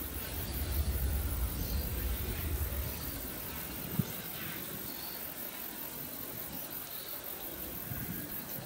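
Cement freight train rumbling away, a low rumble that fades after about three seconds, with a single sharp knock about four seconds in. Insects chirr faintly in the background.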